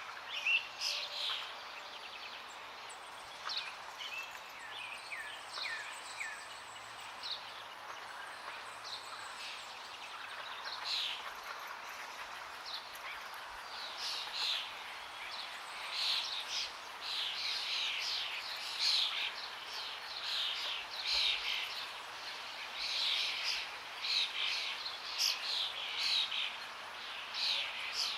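Several birds singing, many short chirps and trills that grow denser over the second half, over a steady rushing background of flowing water.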